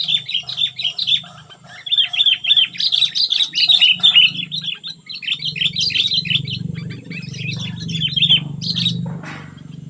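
Sooty-headed bulbul (kutilang) singing fast runs of sharp chirping notes, the rapid 'cengkram' song prized by bird keepers. The song thins out after about five seconds, over a low steady hum that grows louder about halfway through.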